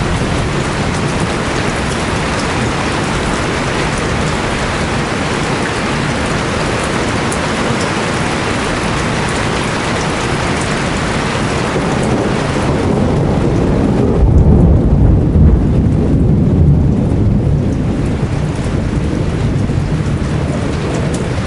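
Rain falling steadily, with a low rumble of thunder swelling a little past halfway and fading again near the end.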